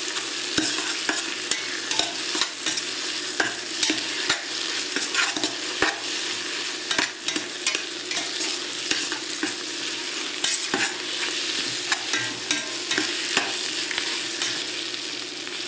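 Mirepoix and tomato paste sizzling in hot oil in a stainless steel stockpot, with a steady frying hiss, while metal tongs stir and clack against the pot many times. The paste is being browned with the vegetables for a brown veal stock.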